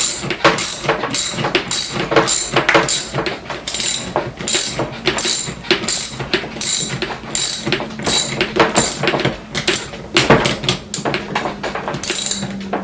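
Ratcheting skate tool clicking as roller skate axle nuts are tightened onto the wheels: a steady run of sharp clicks, about two a second.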